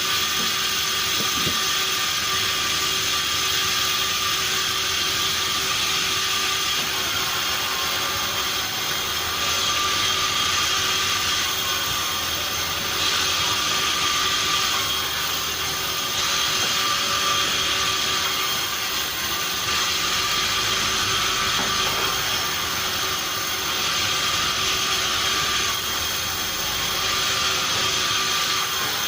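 Sawmill machinery running steadily with a high whine, its noise swelling and easing every few seconds.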